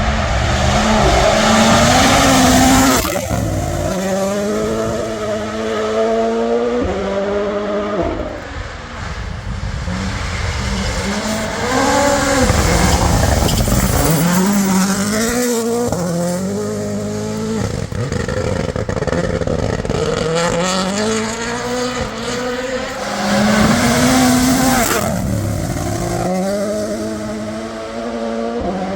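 WRC rally car engines revving hard through the gears, the pitch climbing and then dropping with each upshift, over and over. The sound is loudest as cars pass close, about two seconds in and again near the end.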